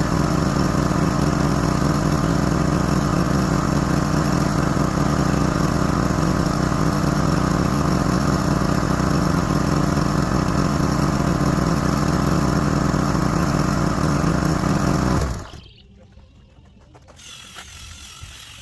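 Small gasoline engine of a pressure washer running steadily, then shutting off about fifteen seconds in.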